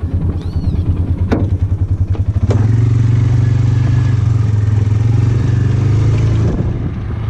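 Polaris utility vehicle engine idling with an uneven pulsing note and a sharp click about a second in. About two and a half seconds in it picks up revs and runs steadily under load, then eases back near the end.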